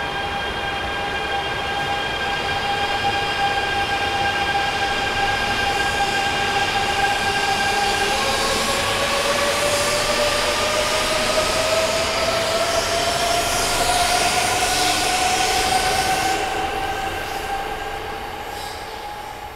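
E926 East-i six-car inspection Shinkansen pulling away and gathering speed. Its electric whine holds a steady pitch at first, then rises slowly from about eight seconds in over growing running noise. It fades near the end as the last car passes.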